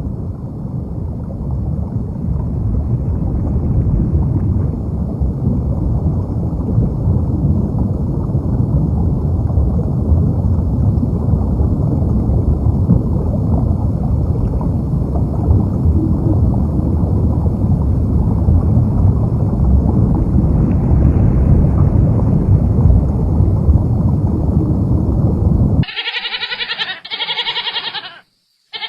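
A loud, steady low rumbling noise, then near the end a sudden change to a bleating goat or sheep calling three times, the last after a brief silence.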